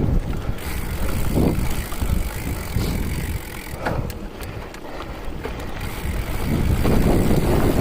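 Rumbling wind and ride noise on the microphone while riding a bike, easing off through the middle and building again near the end, with a few faint clicks.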